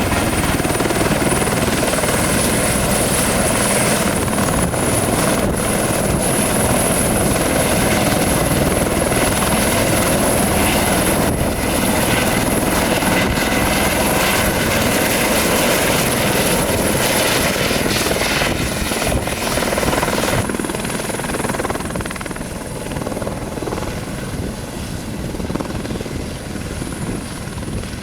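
Airbus H130 helicopter running at power: the Arriel turboshaft's high, steady whine over the rotor and engine noise. About twenty seconds in the sound grows quieter and duller while the whine carries on.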